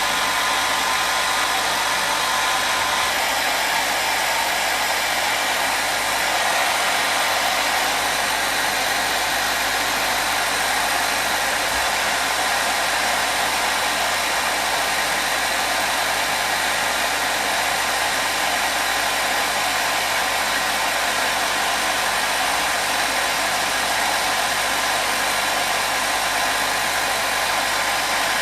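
Hair dryer running steadily, a continuous whoosh of blown air with a faint whine from its motor.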